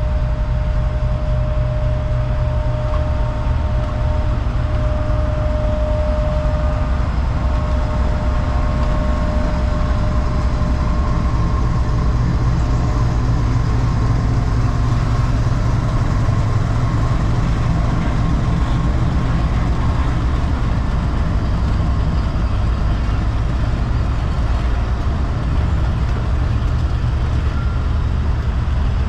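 GEU-40 diesel-electric locomotive's engine running steadily with a deep, continuous rumble, a faint steady whine fading out after several seconds.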